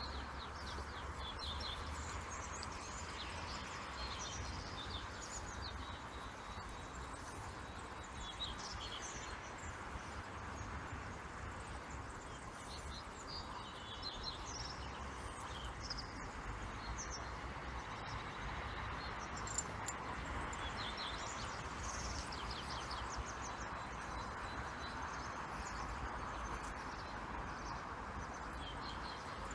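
Small songbirds chirping and twittering, many short high calls scattered throughout, over a steady hum of distant car traffic.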